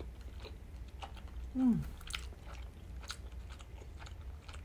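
Close-miked chewing of soft boiled pelmeni with mayonnaise: wet mouth sounds and small lip smacks, with a short falling "mmm" about one and a half seconds in. A low steady hum runs underneath.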